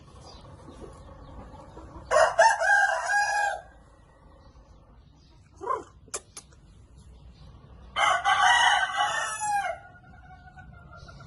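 Rooster crowing twice, each crow lasting about a second and a half, the second trailing off at its end. Between the crows come a brief short call and two sharp clicks.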